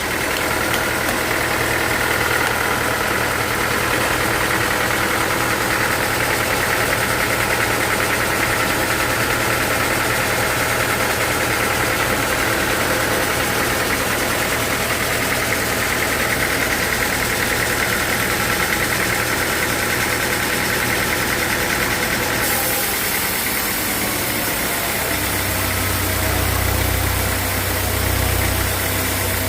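Sawmill machinery running steadily with an engine-like drone. About 23 seconds in the tone changes and the low hum deepens and grows stronger.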